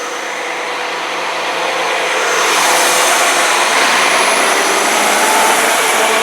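Train running past on the rails, its noise swelling over the first couple of seconds and then holding steady.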